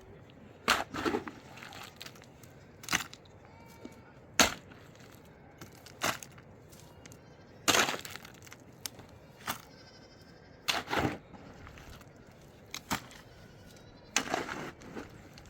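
Sharp cracks and knocks at irregular intervals, roughly one every second or so, some coming in quick pairs.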